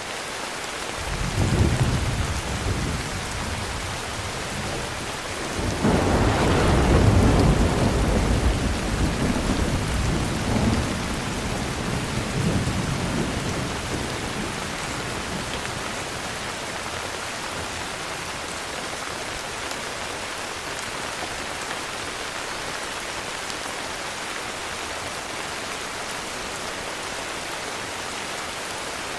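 Heavy rain falling steadily, with rolling thunder: a short rumble about a second in, then a longer, louder roll from about six seconds that dies away after several seconds, leaving only the rain.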